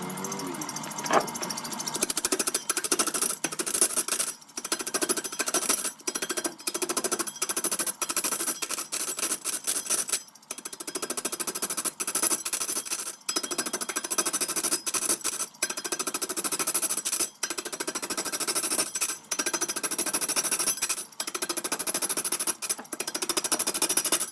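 A wood lathe turning a large blank, the cutting tool chattering against the wood in rapid clattering with short breaks every second or two.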